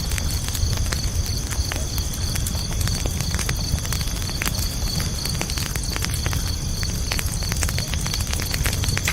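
Campfire crackling steadily, with frequent sharp pops over a low, even rumble of burning, while crickets keep up a continuous, evenly pulsing high chirping.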